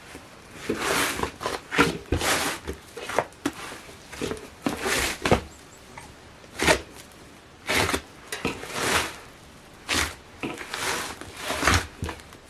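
Slime being kneaded by hand: irregular wet squishes and sharp clicking pops as it is pressed and stretched, one every second or so.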